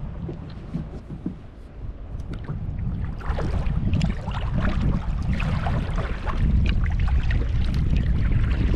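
Water splashing and lapping around a kayak, with many small splashes from about three seconds in, over a steady rumble of wind on the microphone.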